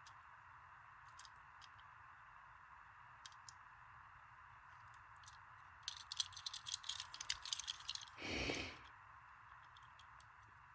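Light clicks and taps of small diecast toy cars being handled, with a quick flurry of them about six seconds in, followed by a brief rush of noise. A faint steady hiss lies underneath.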